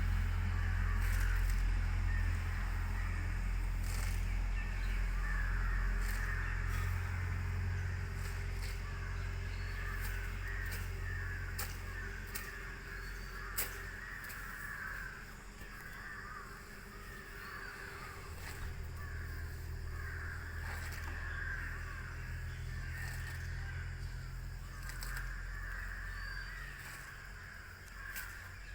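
Birds calling continuously over a steady low hum, with scattered sharp clicks.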